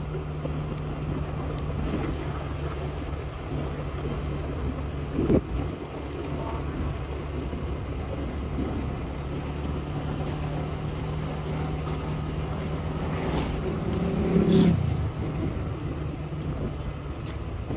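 Motorbike engine running steadily under way, a low even hum with road noise, with a sharp knock about five seconds in and a brief louder swell near the end.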